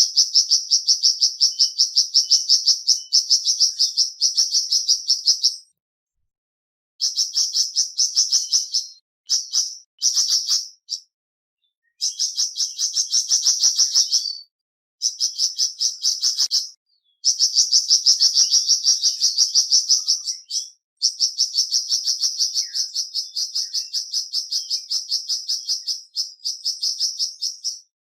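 A flamboyan songbird singing a loud, fast chattering song: a rapid even string of high notes, about five a second. The notes come in long runs broken by several short pauses.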